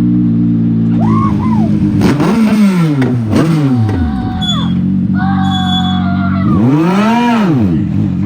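Legend car's motorcycle-derived engine running at low revs, blipped hard twice with the pitch climbing and dropping back each time.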